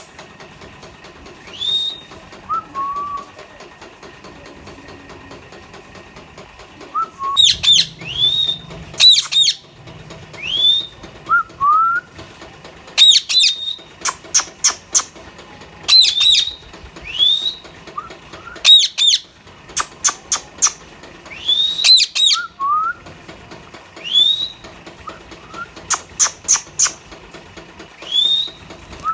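Indian ringneck parrots calling: repeated short upward-sweeping whistles, lower rising notes, and shrill shrieks in quick runs of two to four, coming every second or two from about seven seconds in.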